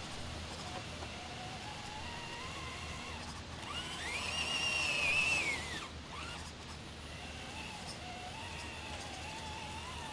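Electric motor and drivetrain of a 1/10-scale Element RC Enduro Knightrunner RC truck whining as it drives, its pitch wavering with the throttle. About four seconds in it speeds up into a louder, higher whine for around two seconds, then drops back to a lower whine.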